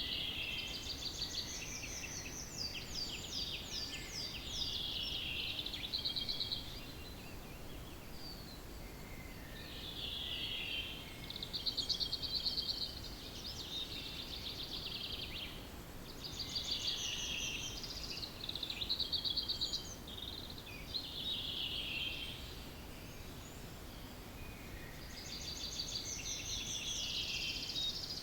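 Wild songbirds in a dawn chorus, with overlapping short songs made of rapid trills and descending note series, repeated every few seconds. A steady low background rumble runs underneath.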